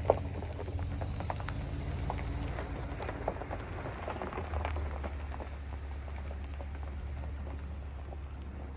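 Raindrops pattering irregularly, with a steady low rumble that comes up about four and a half seconds in.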